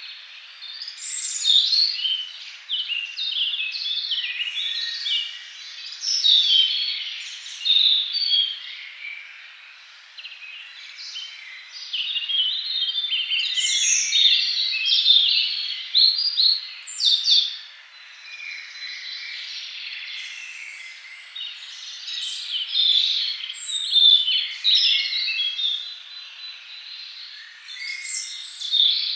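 Forest songbirds singing, several at once: a dense run of quick, overlapping chirps and short phrases, swelling and thinning from moment to moment.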